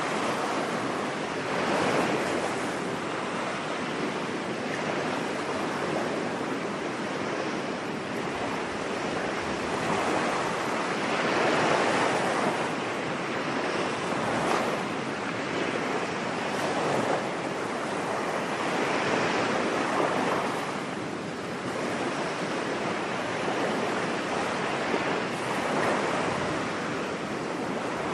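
Ocean waves on a beach: a continuous rush of surf that swells and ebbs as successive waves break and wash in.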